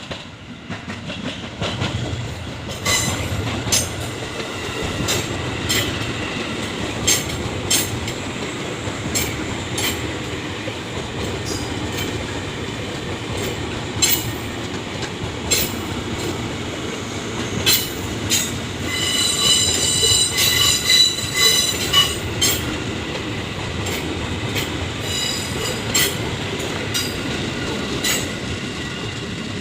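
Train running past at close range: a steady rumble of wheels on rail with irregular sharp clicks and clatter from the rail joints. A high metallic wheel squeal rises about two-thirds of the way through and lasts a few seconds.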